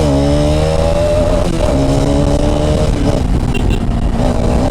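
Bajaj Pulsar RS200's single-cylinder engine running with its rear silencer removed, heard from the bike while riding. The pitch drops at a gear change right at the start, the revs climb for about a second and a half, then the engine settles to a steady, deep exhaust note.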